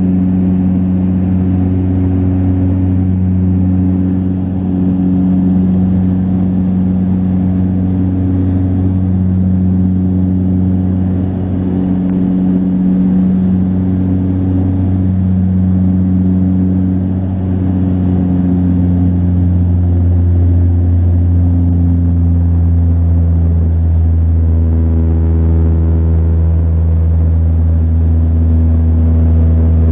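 Twin turboprop engines and propellers of a Saab 340B heard from inside the cabin: a loud, deep, steady drone with a slow throbbing beat. It grows louder and fuller from about eighteen seconds in, as more tones join.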